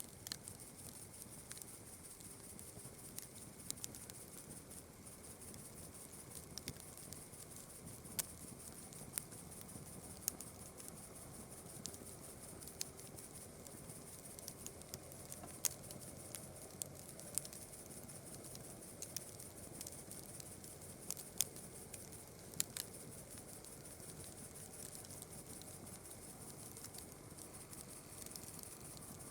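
Campfire crackling, with irregular sharp pops and snaps over a low steady hiss of burning wood. A constant high-pitched chirring of night insects runs underneath.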